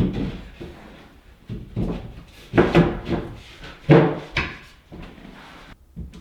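Knocks and scraping from handling and trimming a sheet of drywall, with about five sharp thumps spread a second or so apart.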